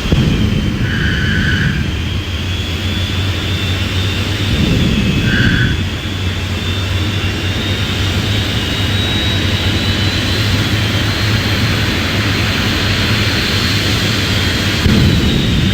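Vampire jet car's jet engine running, with a high whine that rises slowly over the first several seconds and then holds steady over a deep rumble.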